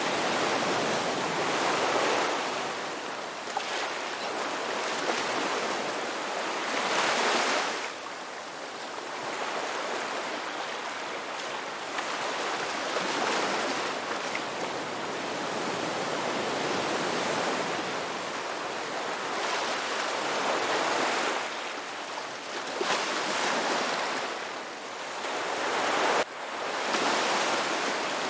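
Ocean surf: waves breaking and washing in and out, the rush of water swelling and fading every several seconds, with a sudden jump in level about two seconds before the end.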